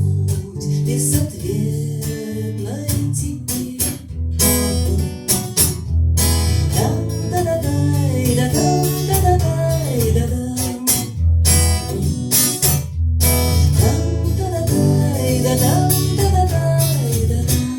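Live song played on an acoustic guitar, strummed, with a sung melody above it; the music stops right at the end.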